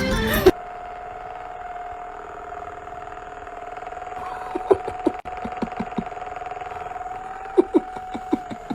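A steady machine hum at one pitch, with a few short knocks about halfway through and again near the end.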